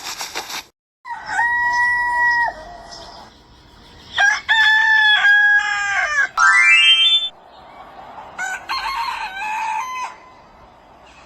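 Roosters crowing: one held crow about a second in, a longer run of crows in the middle, and more crowing near the end.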